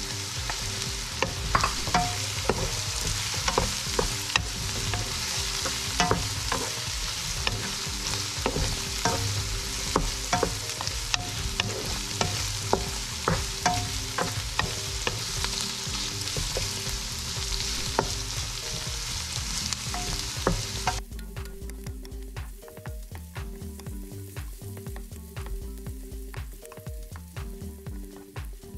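Diced pork frying in hot oil with onion, garlic and ginger in a nonstick wok, sizzling steadily while a wooden spoon stirs and scrapes with frequent clicks against the pan. About three-quarters of the way through, the sizzle drops away suddenly, leaving quieter stirring clicks.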